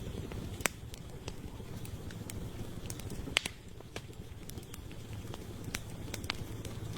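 Wood campfire burning: irregular sharp crackles and pops over a steady low rumble of the flames, with two louder pops, one about half a second in and one near the middle.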